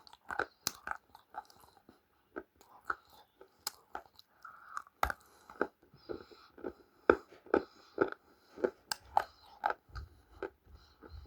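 A person biting and chewing crunchy food, with irregular crunches several times a second.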